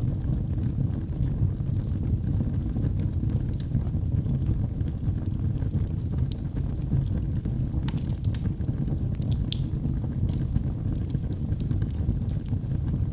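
Wood fire burning in a fireplace: a steady low rumble of the flames with scattered sharp crackles and pops from the burning logs, coming more often in the second half.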